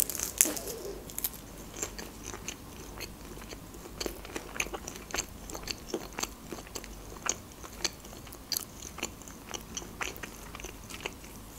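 Close-miked biting and chewing of a crisp toasted lavash quesadilla: a crunchy bite at the very start, then a long run of small, irregular crunching clicks as it is chewed.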